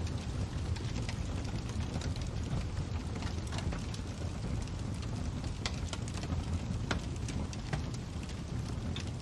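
Fire crackling: a steady low rumble of flames with frequent irregular pops and snaps.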